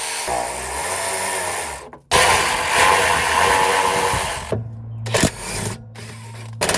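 Handheld power tool running in two long bursts with a short pause between them, backing out the bolts that hold a plastic underbody cover.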